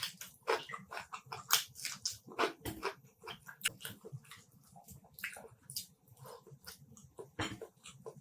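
Close-up mouth sounds of eating chicken curry: irregular wet smacks and chewing clicks.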